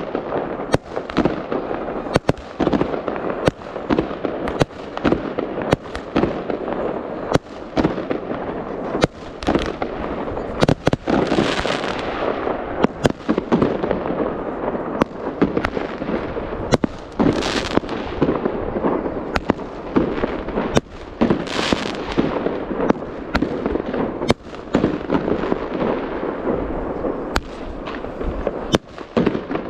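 New Year fireworks going off: a dense run of sharp bangs, several a second, over a steady crackling haze of noise. Three longer, brighter hissing bursts stand out, about a third of the way in, just past halfway, and about two-thirds of the way in.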